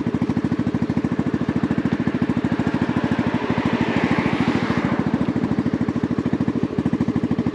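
Honda Navi's small air-cooled single-cylinder four-stroke engine idling through an aftermarket Vance & Hines performance exhaust, with a steady, rapid, even exhaust pulse.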